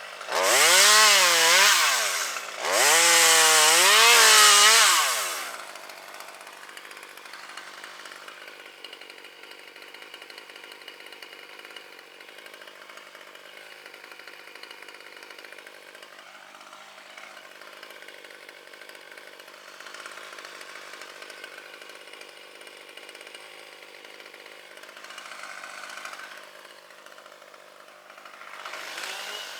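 Gas chainsaw revved hard twice in the first five seconds, its pitch rising and falling with the throttle, then running much more quietly with a gently wavering pitch for the rest of the time.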